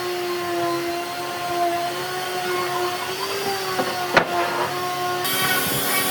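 Electric power tool motor running steadily with a high whine, a sharp knock about four seconds in, and a rough hiss joining near the end as it works the wood.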